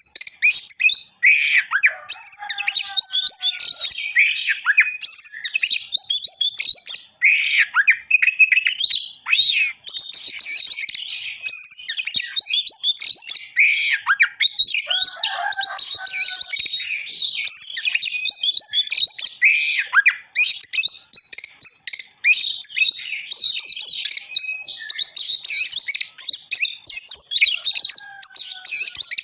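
Oriental magpie-robin (kacer) singing without a break: a loud, fast, varied stream of whistles, chirps and trills, the full song of a bird in top singing form.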